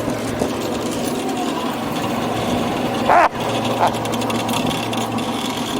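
Bumper boat's small engine running steadily with a buzzing drone. A brief, loud, high-pitched sound cuts in about three seconds in, and a fainter one follows shortly after.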